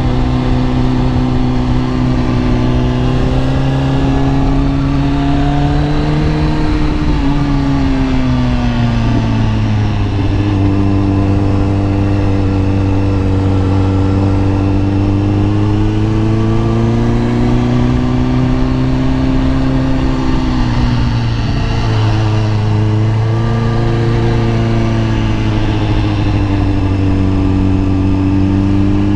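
Kawasaki ZX10R's inline-four engine running under way, its pitch mostly steady. The pitch glides down about a third of the way in, dips briefly about two-thirds through, then slowly rises again.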